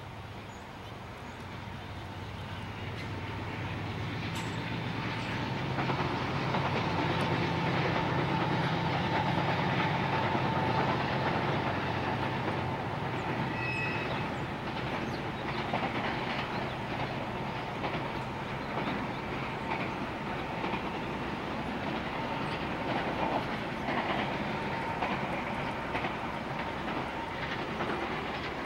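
A freight train of double-stack container cars passes. A low diesel locomotive drone builds over the first several seconds and fades after about twelve. The well cars then roll by with wheels clicking over the rail joints.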